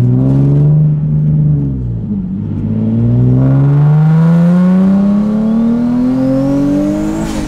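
Turbocharged Nissan 370Z's 3.7-litre V6, with new downpipes, accelerating as heard from inside the cabin. The engine note climbs, dips about two seconds in, then rises steadily for about five seconds before dropping back near the end. A faint high turbo whistle climbs along with it.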